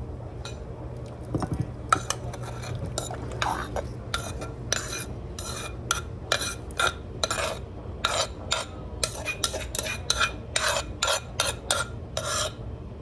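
A metal spoon or fork clinking and scraping against a bowl in a long run of quick strokes, about two a second, each with a short ringing note, over a steady low hum.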